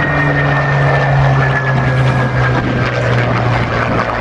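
Aircraft engine droning as it flies past, its pitch slowly falling.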